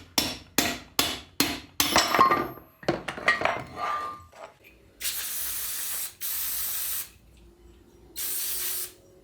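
Hammer blows on metal, about three a second for the first two seconds, then metal parts clinking and ringing. This is followed by three one-second hisses from an aerosol spray can.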